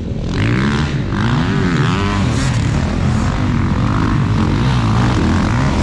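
Motocross bikes running on the track, their engines revving up and down again and again as they throttle and shift, with more than one bike heard at once.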